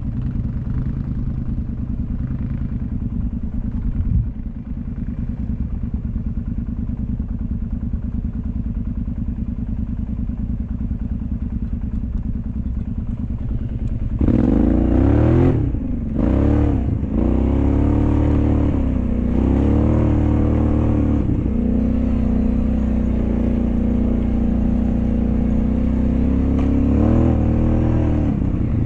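An off-road vehicle's engine runs at low revs with a steady, even pulse. About halfway through it revs up and pulls harder, and its pitch then rises and dips several times as the throttle is worked.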